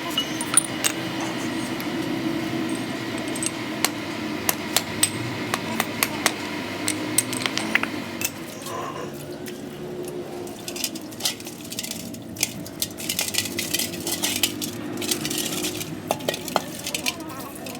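Metal engine parts and hand tools clinking and clattering as they are handled, a long run of sharp irregular clinks over a steady low background hum.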